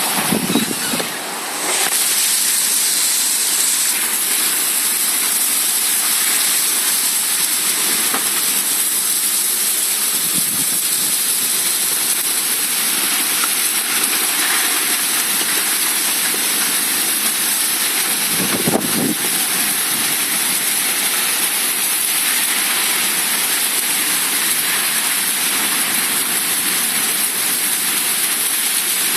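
Heavy rain pouring down in a dense, steady hiss, with a brief dip about a second in.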